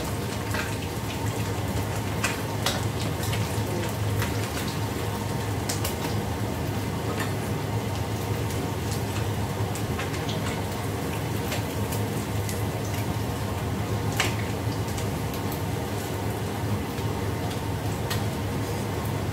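Food sizzling and bubbling in a sauce in a wok over a gas burner, over a steady low hum, with a clink of a metal ladle or strainer against the pan now and then.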